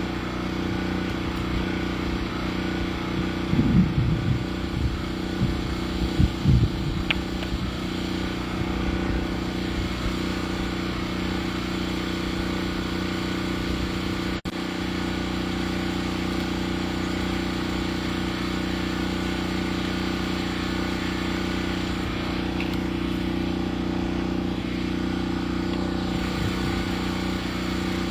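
An engine running steadily at an even speed, with a few loud low thumps about four and six seconds in.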